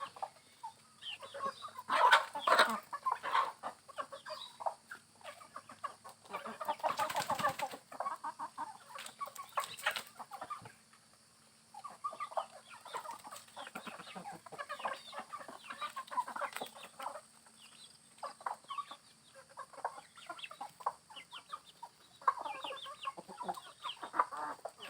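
A flock of Indonesian native village chickens (ayam kampung) clucking in short, irregular calls, with louder flurries about two seconds and seven seconds in.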